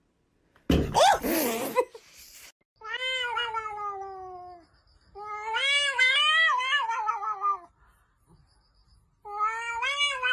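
Domestic cat yowling: a short harsh burst about a second in, then three long drawn-out meows, the first sliding steadily down in pitch.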